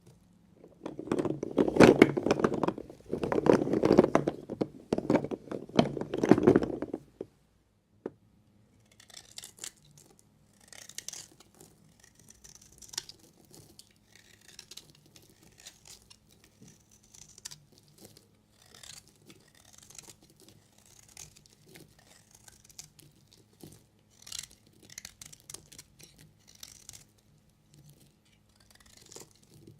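A knife cutting through bars of soap. About six seconds of loud, dense crunching come first, then quieter scattered scraping and crumbling strokes.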